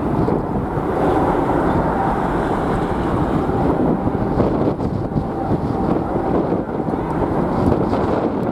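Jet airliner engines running on a takeoff, a steady roar with a faint whine in it, mixed with strong wind buffeting the microphone.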